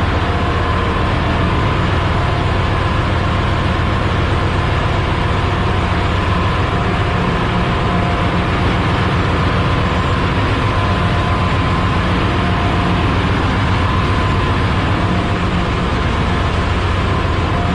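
Ship's engine-room machinery running with a loud, steady drone that holds unchanged throughout.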